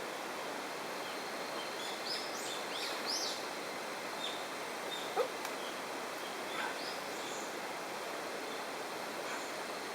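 Steady rushing of a waterfall and river, with a few small birds chirping over it about two to three seconds in, and one sharp click about five seconds in.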